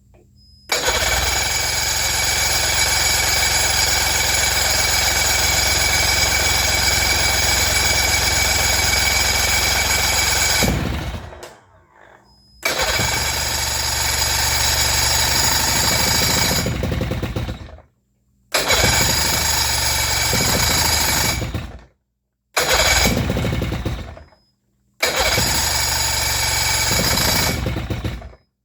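Pontoon boat's outboard motor being started in five bursts, the first about ten seconds long and the later ones shorter, each cutting off abruptly. Fuel has just reached the carburetor, which the owner suspects is gummed with varnish.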